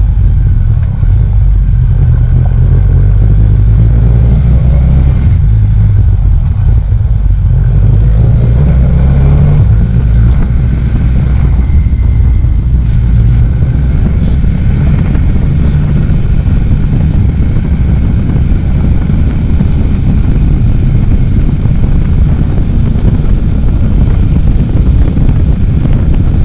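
Small Suzuki motorcycle riding along at steady speed, engine running under heavy low wind rumble on the microphone.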